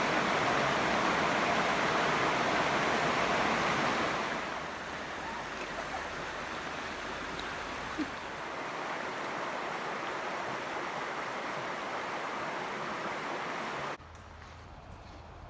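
Steady rush of running water, louder for the first few seconds, with a single faint click about eight seconds in. Near the end it drops to a fainter hush.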